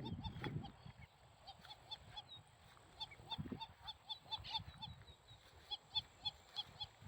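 Birds calling with short, evenly repeated honk-like notes, several a second, with a low rumble in the first second.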